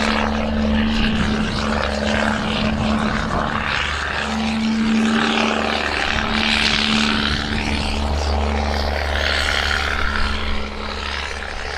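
Heavy truck's diesel engine running steadily, a constant low drone under a rushing road and wind noise that swells and fades.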